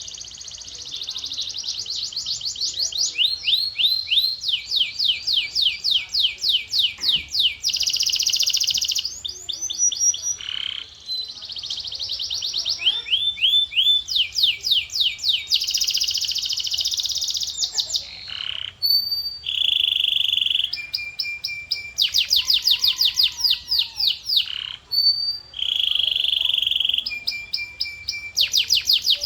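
Male canary singing: fast trills of high repeated notes, each phrase lasting a second or two before switching to a new one, with a few short held notes between.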